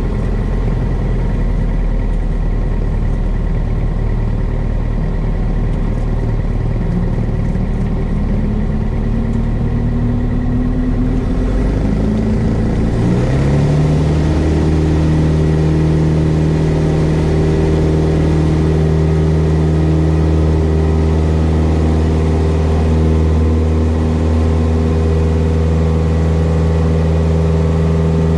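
Cessna 172S Skyhawk's four-cylinder Lycoming engine and propeller, heard from inside the cabin, brought up to full takeoff power. The engine's pitch climbs over several seconds before the middle of the stretch, then holds steady and a little louder at full power.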